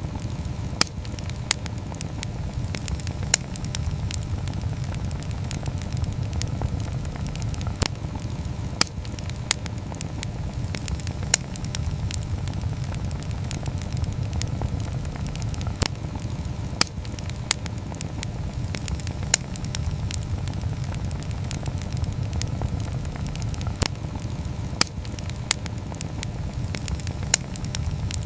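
Campfire burning: wood crackling with sharp, irregular pops, roughly one every second or two, over a steady low rush of the flames.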